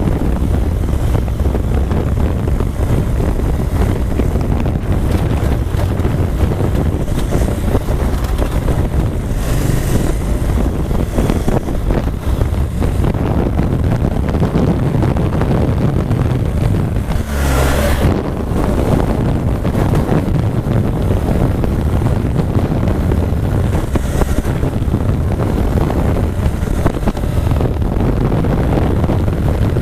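Wind buffeting the microphone while riding a motorcycle, with the engine running steadily underneath. There is one brief louder rush about eighteen seconds in.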